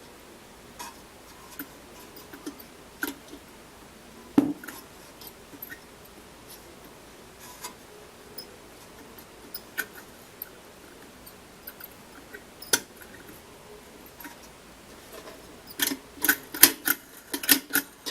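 Small clicks and taps of wire terminals and metal and plastic parts being handled and pushed onto a rice cooker's switch, scattered at first. There is one louder knock a few seconds in and a quick run of clicks near the end.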